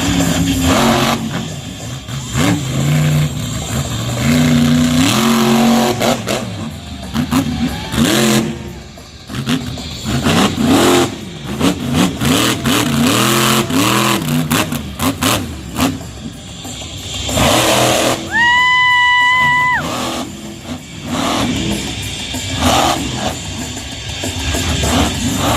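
Monster truck engine revving again and again, its pitch climbing and falling, with music playing over the arena PA. About two-thirds of the way through, a steady high tone sounds for a second or so.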